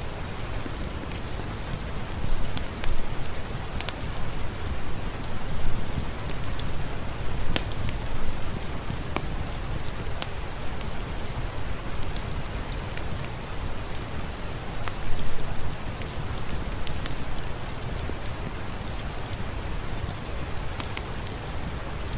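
Steady rainfall, a dense even hiss with a low rumble, with scattered sharp ticks throughout and a few brief louder swells.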